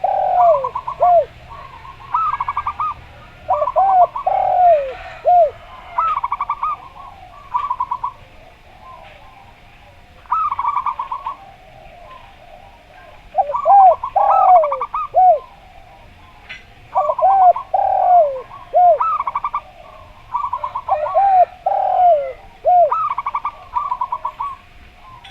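A zebra dove and a spotted dove cooing in turn, phrase after phrase with short pauses between. Rapid stuttering trills alternate with swinging, falling coos.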